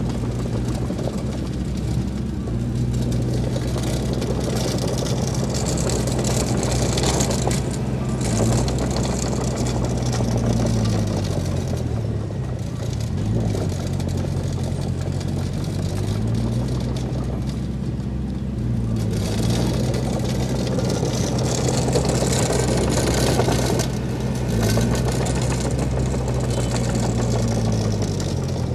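Diesel engine of heavy earthmoving machinery running steadily, its pitch dipping and recovering several times as it takes load, with stretches of higher clattering noise mixed in.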